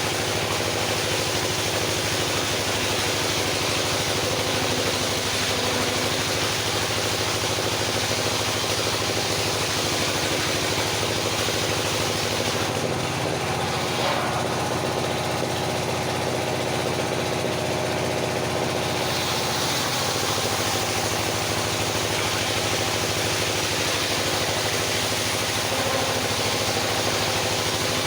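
Engine of a circular sawmill running steadily, its note shifting for about six seconds midway before settling back.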